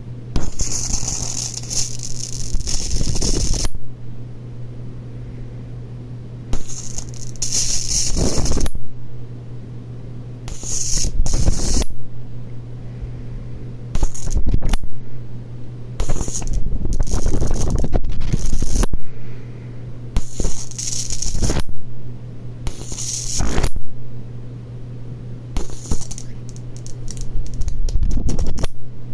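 High-voltage arc from a TVS-110LA TV flyback transformer driven by a ZVS driver, crackling and buzzing in about eight bursts of one to three seconds each as the arc is drawn again and again. A steady low hum runs through the gaps between the bursts.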